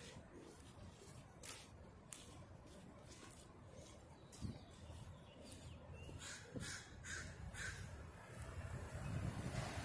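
A bird calling over faint street ambience with a low hum: a couple of single calls, then a quick run of four calls about two-thirds of the way through.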